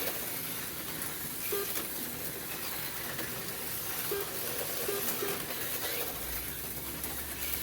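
HO-scale slot cars running on the track, their small electric motors giving a steady whirring, hissing noise; a low steady hum comes in about six seconds in.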